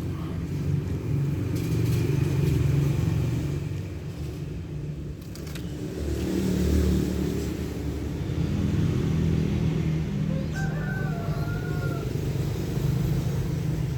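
Continuous low rumble, with a rooster crowing once, faintly, about ten and a half seconds in, for about a second and a half.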